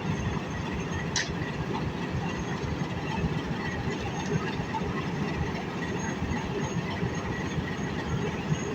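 Passenger train hauled by a Pakistan Railways HBU-20 diesel-electric locomotive, a steady low rumble at the platform as it is about to move off, with a brief high squeak about a second in.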